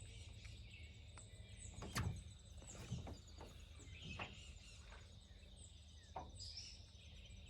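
Quiet open-air ambience with faint bird chirps and a few soft knocks, the loudest about two seconds in.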